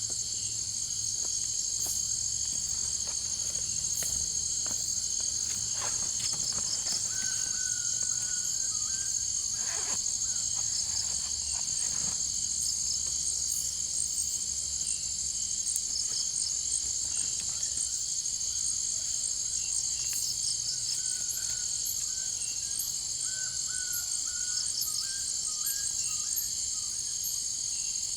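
Steady, high-pitched chorus of forest insects, with a few short chirping calls about a third of the way in and again in the last third, and a few faint knocks.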